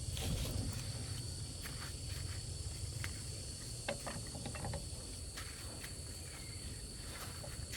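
Insects chirping steadily in the background, with a low rumble underneath and a few light clicks and taps about three to four seconds in.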